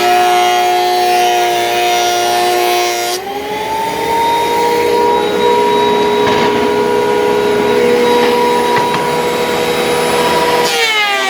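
Thickness planer running as a maple board feeds through it. The motor's steady whine steps up in pitch about three seconds in and drops back down near the end as the load on the cutterhead changes.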